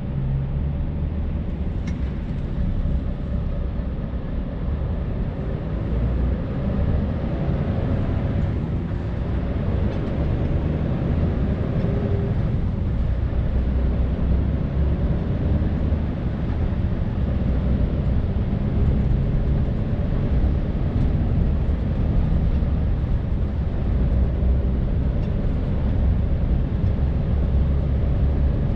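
Scania R580's 16-litre V8 diesel engine running steadily under way with tyre and road noise, heard from inside the truck's cab; it gets a little louder over the first several seconds.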